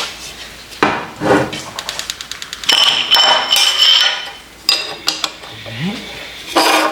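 Steel vise parts clinking and knocking as they are handled and fitted, with a quick run of small ticks about two seconds in, followed by about a second and a half of ringing metal.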